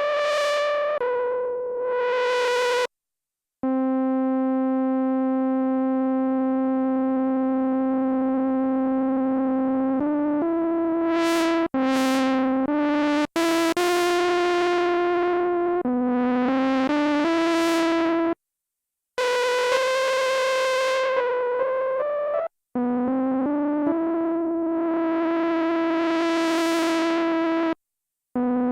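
Sequential analog synthesizer playing a bright, buzzy patch: held notes and short stepping phrases, with the filter sweeping open and shut on several notes. The sound stops dead a few times for under a second between phrases.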